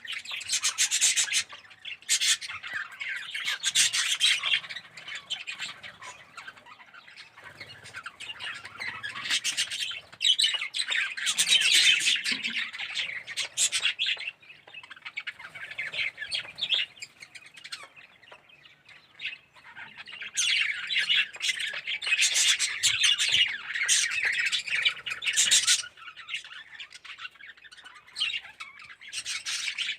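A colony of budgerigars chattering and squawking, in loud spells of dense calling with quieter stretches between.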